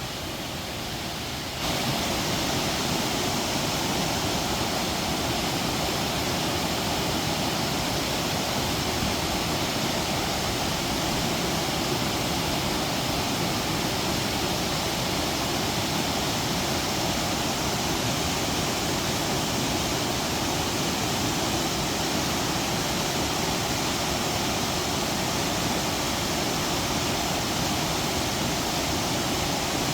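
Kagumo waterfall: water pouring over rocks in a steady, unbroken rush, which grows a little louder about two seconds in and then holds even.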